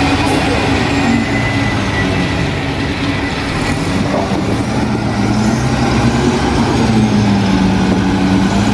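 Heavy diesel engine of an earthmoving machine running steadily, slightly louder in the second half.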